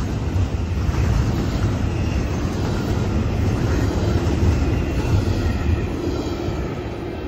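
Double-stack intermodal container well cars rolling past: a steady rumble of steel wheels on rail, easing off slightly near the end.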